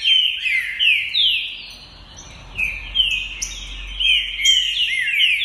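A captive songbird singing loudly in a fast, continuous run of quick sweeping whistled notes, with a brief pause about two seconds in.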